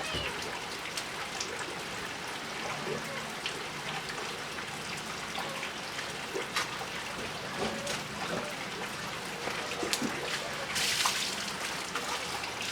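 Water trickling and dripping, with scattered small ticks and a brief rush of noise about eleven seconds in.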